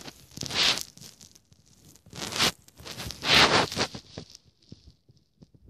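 Rustling and scraping close to the microphone in several short bursts, the loudest and longest a little past the middle, fading out near the end.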